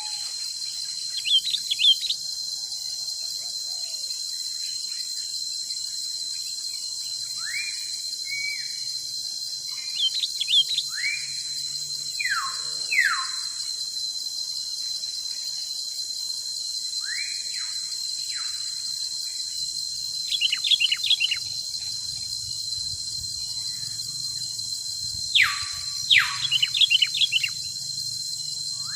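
Birds calling over a steady, high-pitched insect drone. Short rising whistled notes and quick clusters of chirps come every few seconds, with the loudest bursts about a second in, near the middle and near the end.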